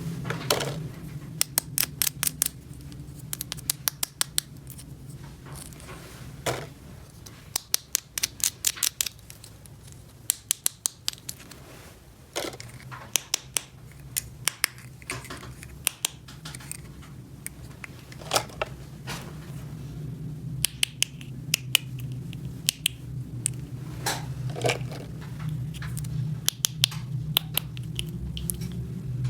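Plastic toy pieces being handled and fitted together, giving sharp clicks, often in quick runs of several, over a steady low hum.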